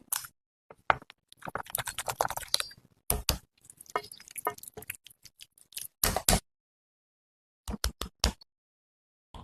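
Someone eating chicken: close crunching and chewing in short crackly bursts, broken by abrupt silent gaps.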